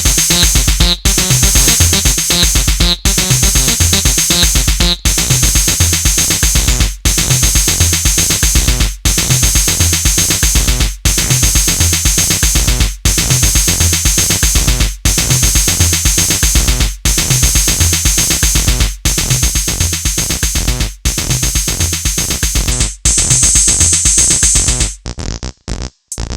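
Acid electronic music played live on AcidMachine: a steady drum-machine beat under synth lines, with a brief drop-out about every two seconds. Near the end the beat breaks up and the sound thins out.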